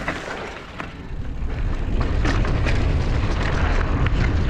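Mountain bike riding over rocky dirt trail: a low rumble of wind and ground noise on the bike-mounted or body-worn microphone, with scattered clicks and knocks from tyres on rocks and the bike rattling, growing louder about a second and a half in as the bike picks up speed.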